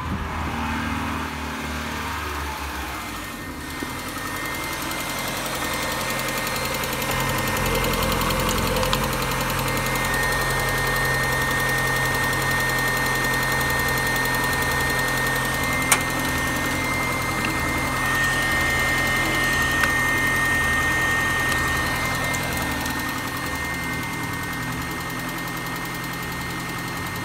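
Opel Vectra B's 1.6-litre 16-valve four-cylinder petrol engine (X16XEL Ecotec) running steadily at idle with the bonnet open, with a thin steady high whine above the engine note. A single sharp click comes about sixteen seconds in.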